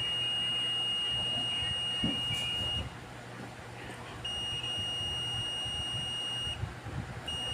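Multimeter continuity beeper sounding a steady high beep while the probes touch a connected path on the circuit board, showing continuity. The beep holds for nearly three seconds, stops, sounds again for about two seconds, then starts briefly once more at the very end.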